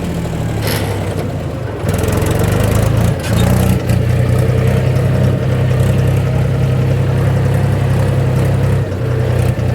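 Mahindra 275 DI tractor's three-cylinder diesel engine running steadily, growing louder about two seconds in.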